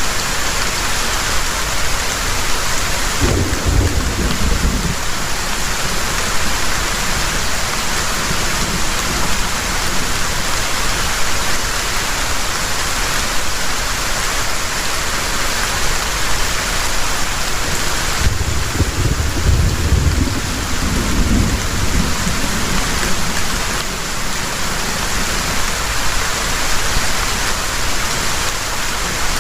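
Heavy rain falling steadily in a thunderstorm. Thunder rumbles low under the rain twice, briefly a few seconds in and for longer about two-thirds of the way through.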